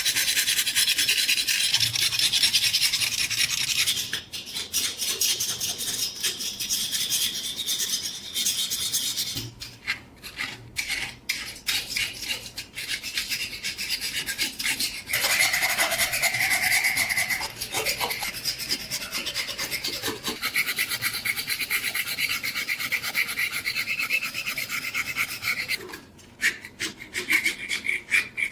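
Abrasive hand work scraping rust off a steel knife blade in fast continuous strokes. It thins out with short breaks for a stretch, gives a brief squeal about halfway through, and stops shortly before the end.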